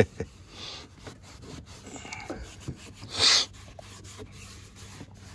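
Microfiber cloth rubbing trim restorer onto faded motorcycle trim, a run of scratchy wiping strokes with a sharp click at the start and a louder swish about three seconds in.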